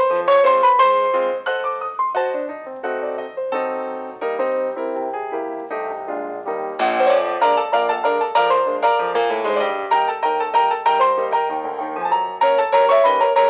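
Background piano music: a lively melody of many short, quick notes, growing fuller about halfway through.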